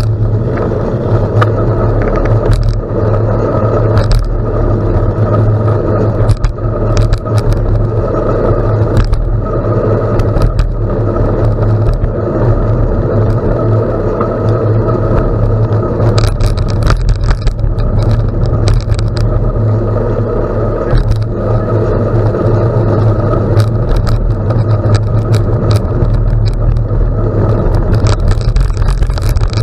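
Bicycle tyres rolling over a gravel road, with wind buffeting the microphone. It is a loud, steady low rumble with scattered crackles and clicks from the loose stones.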